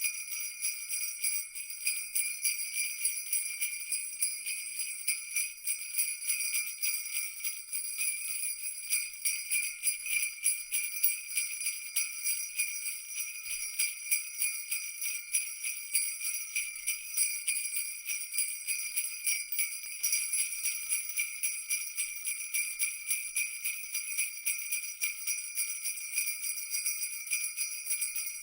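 Christmas jingle bells shaken continuously in a fast, steady rattle, their bright high ringing held throughout.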